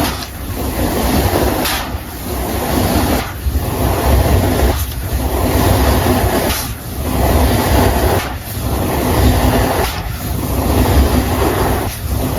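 Hands working loose baking soda powder: a continuous rustling noise in long strokes, with short breaks about every one and a half to two seconds.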